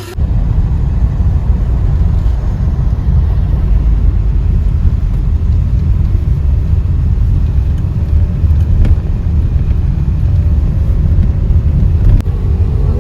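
Steady, heavy low rumble of a moving vehicle, engine and road noise, starting abruptly at a cut.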